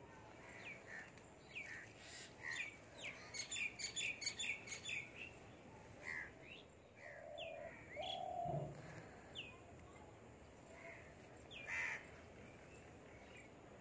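Wild birds chirping: short, sharply falling chirps, with a quick run of calls about three to five seconds in and scattered chirps after.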